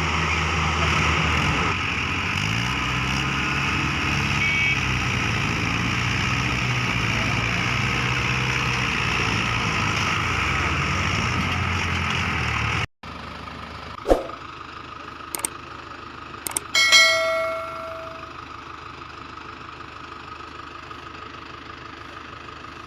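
A tractor-style engine running steadily, which cuts off abruptly about 13 seconds in. After it come a few sharp clicks and a short ringing ding.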